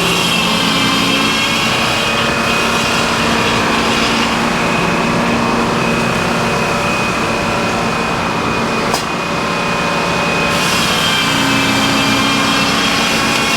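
Sawmill running steadily, its engine and saw cutting through a log, with one sharp click about nine seconds in.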